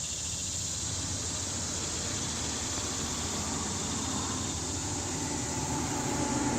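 Steady outdoor background noise: an even hiss with a faint low hum, without any distinct events.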